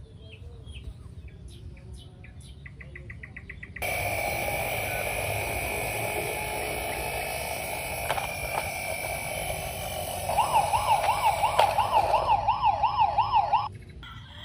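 Electronic siren sound, the kind played by a toy vehicle's sound module. A loud hissing electronic sound comes in abruptly about four seconds in, then a fast warbling siren, about four wails a second, takes over and cuts off suddenly near the end.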